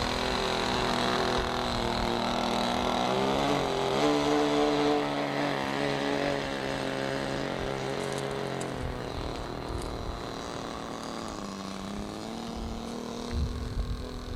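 Small model-airplane engine running with a high, buzzing whine. Its pitch climbs a few seconds in, drops about halfway through and climbs again near the end, as the throttle changes or the plane passes. Wind rumbles on the microphone near the end.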